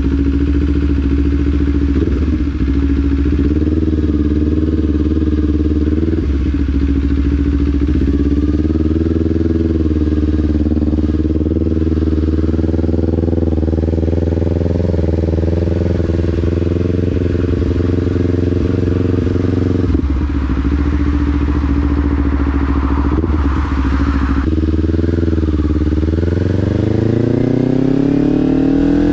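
Kawasaki Ninja 500's parallel-twin engine running at a steady, low pitch with small wobbles, then rising in pitch near the end as the bike accelerates.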